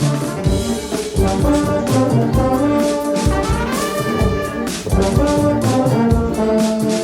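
Large street brass band (massed French fanfares) playing a lively tune: trumpets and trombones over drums, with a rising brass glide about three and a half seconds in.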